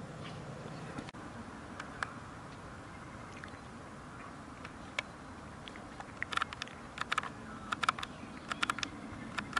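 Red-headed woodpecker pecking at its nest hole in a dead tree: irregular sharp taps, a few at first, then in quick little clusters from about halfway through.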